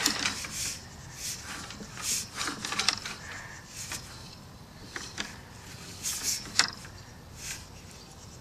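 Sewer inspection camera's push cable being fed into the line: short scrapes and clicks at irregular intervals, about one every second.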